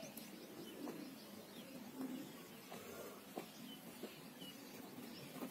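Faint bird chirps, short and scattered, with a few soft clicks.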